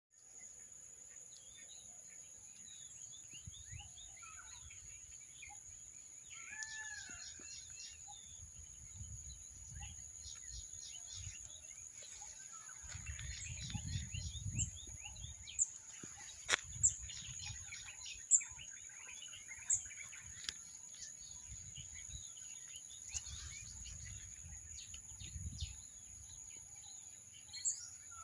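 Outdoor ambience of several birds chirping and calling, with a few louder sharp chirps in the middle, over a steady high-pitched whine and intermittent low rumbles.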